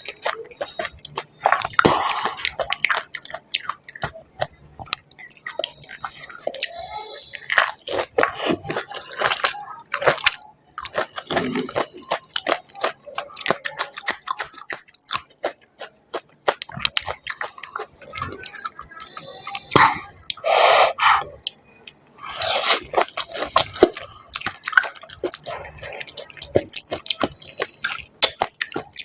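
Close-up crunching and chewing of pani puri: crisp hollow puri shells cracking between the teeth, with wet mouth sounds as the filled puris are eaten one after another.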